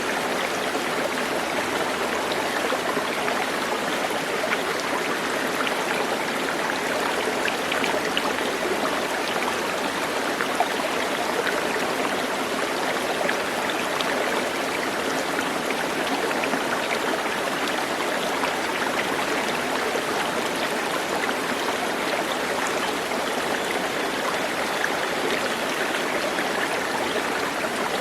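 Stream water running steadily, an even unbroken rush with faint small splashes and trickles.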